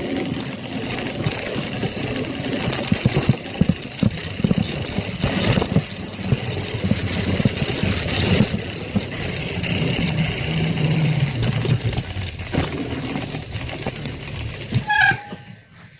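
A motorbike's motor running, heard only as a faint motor noise under irregular knocks and noise. The sound drops away near the end.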